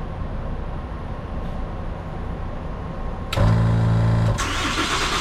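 Ambulance engine being started: a steady low rumble, then about three seconds in a sudden loud hum for about a second as it cranks, followed by louder running noise. The start is the test that trips the Kussmaul auto eject.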